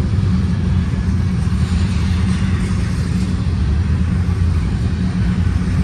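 Freight train rolling past: a steady, unbroken rumble of wheels on rail with no break or change.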